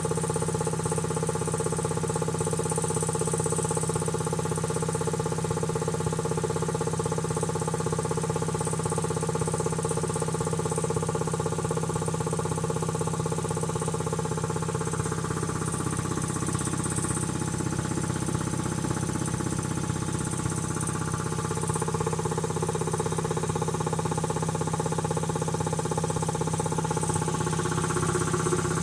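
Quincy QT-5 two-stage reciprocating air compressor running steadily on its first run after a rebuild, with a constant mechanical hum and clatter; its note shifts a little about halfway through.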